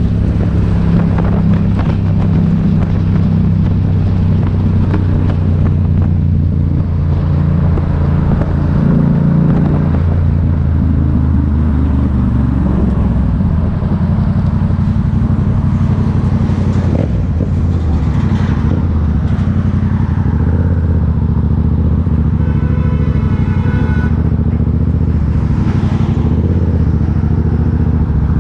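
Motorcycle engine running steadily while riding, a low drone whose note shifts a few times as the revs change. A brief high-pitched tone sounds about 22 seconds in.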